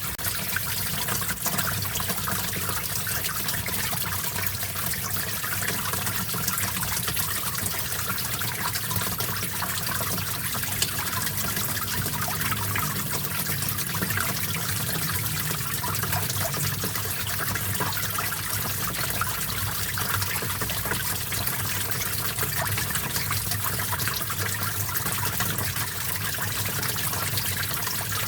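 A small stream of water trickling and babbling in a steady, even flow.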